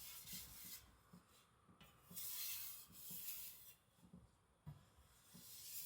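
Carbon-steel cleaver edge drawn across a wet whetstone with very light pressure: several faint, soft strokes with short pauses between.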